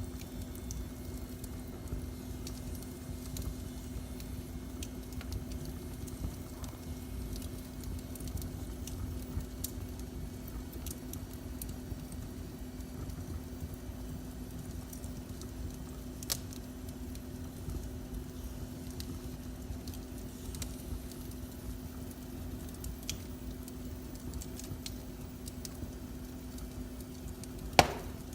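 Wood fire burning in a fireplace, crackling with scattered small clicks over a steady low rumble and faint hum. There is a sharper snap about halfway through and a single loud pop near the end.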